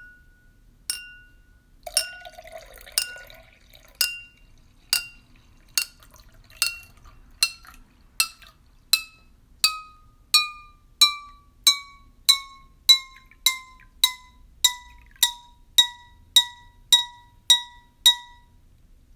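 A spoon tapping a drinking glass over and over while water is poured into it. Each tap rings with a clear tone that falls steadily in pitch as the water rises, then holds steady near the end. The taps quicken from about one to about two a second, and the splash of pouring water is heard a few seconds in.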